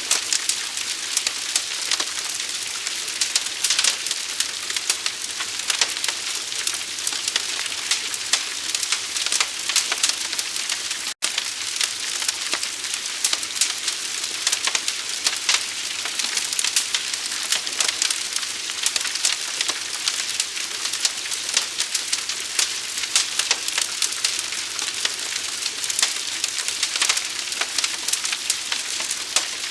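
Large fire burning, with a steady hiss and a dense stream of small crackles and pops. The sound cuts out completely for an instant about eleven seconds in.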